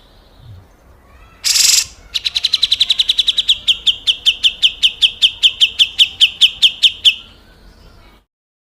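Grey-cheeked bulbul (cucak jenggot) giving its harsh 'besetan' call: one short rasping burst, then a long run of sharp chipping notes, about five a second, slowing a little over some five seconds. The sound cuts off abruptly near the end.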